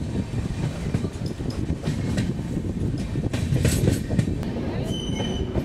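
Express passenger train running on the track, heard from inside a general-class coach: a steady rumble of wheels on rail with clicks over the joints, and a brief high whine near the end.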